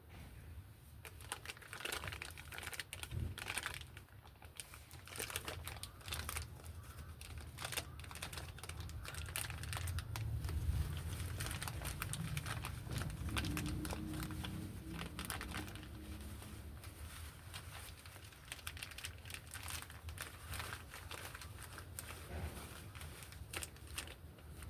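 Irregular crinkling, crackling and clicking of hands handling parts during a washing machine repair, with a low rumble swelling from about ten to fifteen seconds in.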